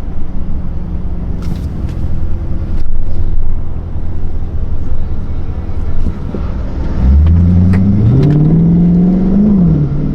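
Straight-piped 5.7-litre Hemi V8 of a 2022 Chrysler 300 S, heard from inside the car, droning at low revs, then pulling hard about seven seconds in: the revs climb, drop at an upshift near the end and climb again.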